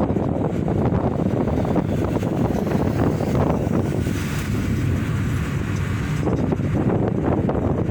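Steady road and wind noise of a vehicle driving in the rain, a dense rumbling hiss. About four seconds in, the middle of the noise thins and the hiss brightens for about two seconds, then the rumble returns.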